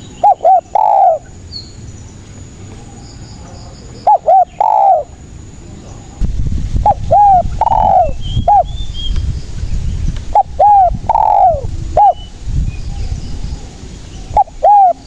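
Spotted dove (tekukur) singing its cooing song over and over, one phrase about every three and a half to four seconds. Each phrase is two short coos, a longer coo falling in pitch, then a short final coo.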